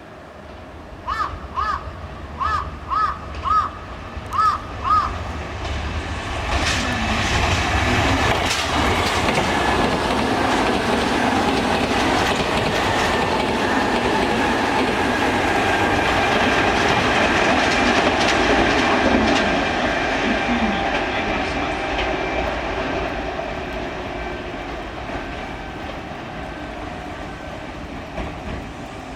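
Kintetsu electric train running through the station, its wheels clattering over the rail joints, building loud a few seconds in and fading away near the end. Just before it, a run of about eight short ringing tones, two or three a second.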